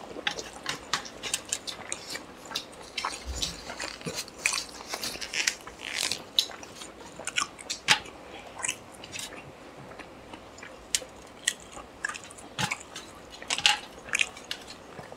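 Close-miked eating sounds of chicken curry and rice eaten by hand: irregular chewing, biting and wet mouth clicks that come in scattered bursts.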